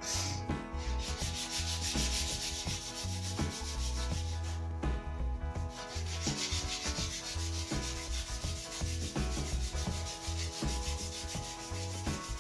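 Sandpaper rubbing on a new wooden snooker cue shaft: a steady scratchy hiss, with a short break about halfway through.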